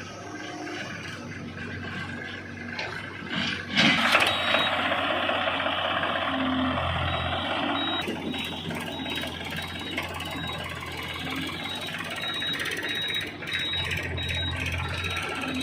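Heavy diesel machine running with its reversing alarm beeping repeatedly, starting about four seconds in along with a loud rushing noise.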